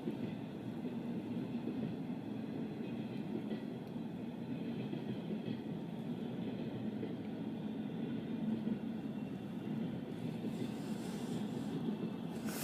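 A train running past with a steady, even low rumble.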